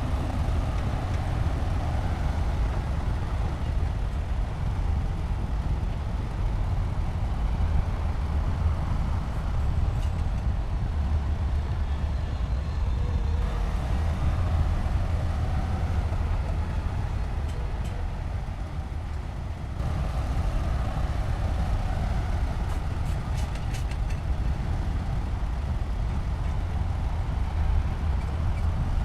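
Heavy construction machinery's diesel engine running steadily under load, with a few faint clicks about two-thirds of the way through.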